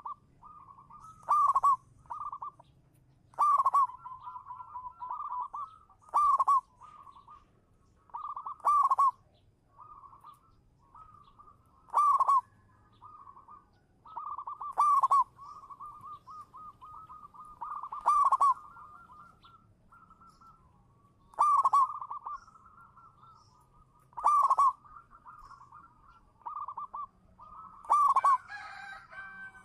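Zebra dove (local perkutut) in full song: repeated rippling coos around one pitch, with a loud accented note every two to three seconds.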